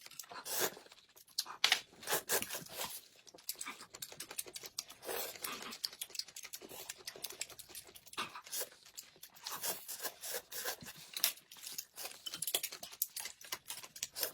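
Close-miked mukbang eating sounds: irregular crunching and crackling as food is bitten and chewed.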